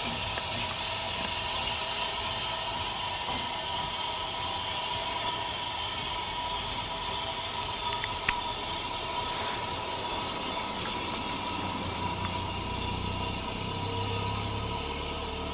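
Steam locomotive hissing steadily, with a held tone running through the hiss. A single sharp click comes about eight seconds in, and a low rumble joins near the end.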